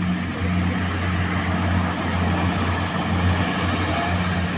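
Heavy truck's diesel engine pulling up a steep climb: a steady, low drone that dips briefly a few times.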